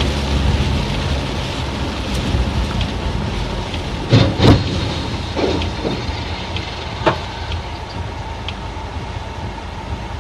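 Steady road and engine rumble of a moving car heard from a dashcam, with a cluster of loud bangs about four seconds in and a few smaller knocks over the next three seconds.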